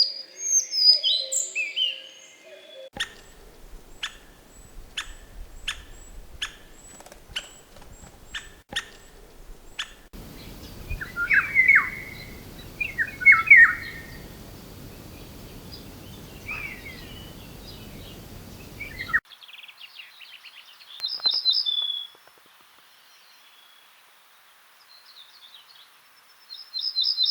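Wild birds calling and singing in several short recordings cut together: first a run of sharp ticks about two a second, then loud whistled phrases with sweeping notes over a background hiss, then high thin chirps.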